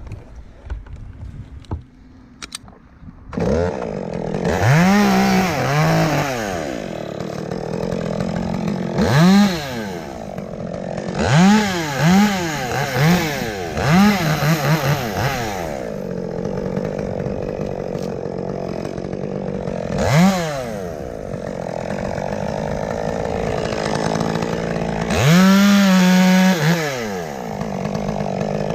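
Two-stroke chainsaw that starts up about three seconds in and is then revved up and down repeatedly, its pitch rising and falling with each throttle burst and dropping back between them.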